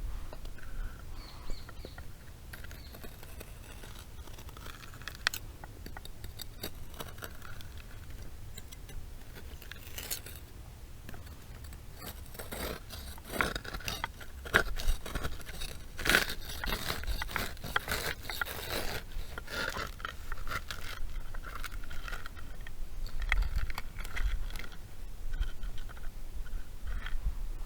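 Knife blade carving a wooden spoon blank, shaving wood in many irregular scraping strokes that come thickest through the middle of the stretch.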